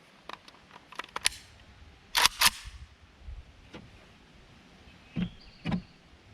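Sharp mechanical clicks and clacks of a rifle being handled and readied to fire, with the loudest clatter about two seconds in.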